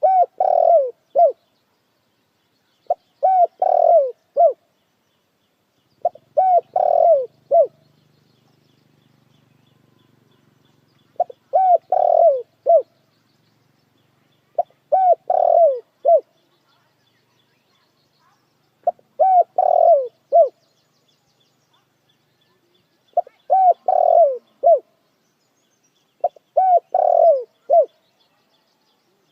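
Puter dekukur dove cooing: eight repeated phrases, each a quick run of three to five short, arching coo notes, coming every three to four seconds.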